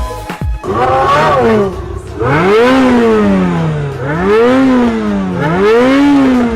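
Jet ski engine revving up and easing off four times, its pitch climbing quickly and then sinking more slowly each time.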